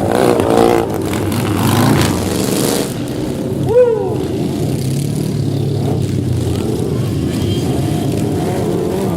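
Motorcycle and car engines running as vehicles ride slowly in a loop, with a brief pitched squeal about four seconds in.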